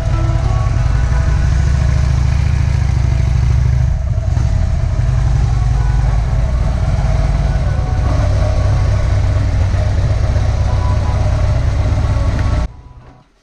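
Harley-Davidson V-twin motorcycle engine running steadily while riding, with a loud low rumble. The sound cuts off suddenly near the end.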